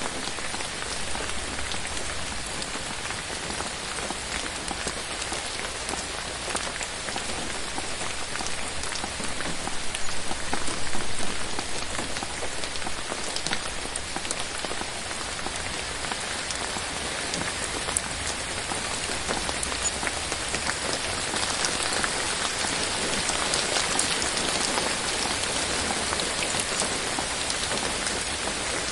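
Steady rain falling on forest leaves, a dense even patter with many small drops ticking, swelling briefly louder about a third of the way in.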